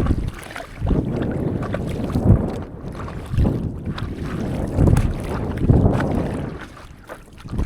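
Wind buffeting the microphone in uneven gusts over sloshing sea water.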